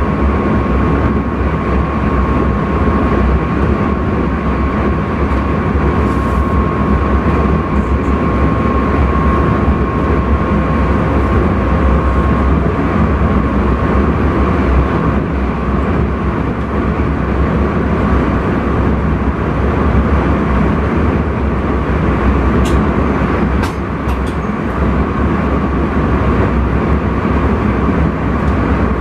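Intercity train running at speed, heard from inside the driver's cab: a steady rumbling running noise. A thin steady whine sounds over it for the first dozen seconds, and a couple of short clicks come late on.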